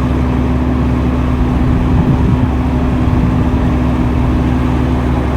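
Heavy earthmoving machine's engine running steadily, a constant low hum with a steady tone.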